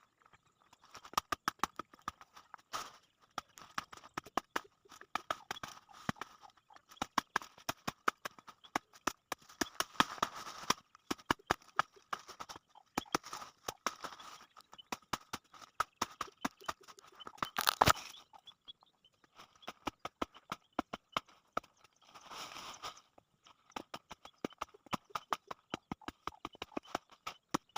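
Weeds being cut by hand with a cutting tool: a dense, irregular run of sharp snips, snaps and crunches of stems, with short pauses and a louder strike about two-thirds through.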